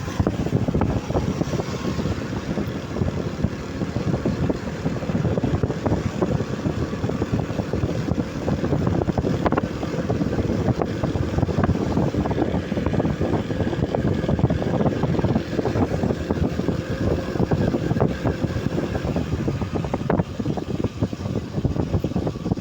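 Rainstorm wind buffeting the microphone: a dense, fluttering low rumble that holds steady throughout.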